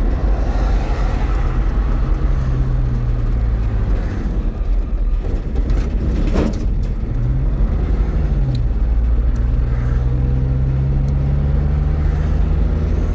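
Motor vehicle running along: a steady, loud low rumble with the engine's hum rising and falling in pitch a few times.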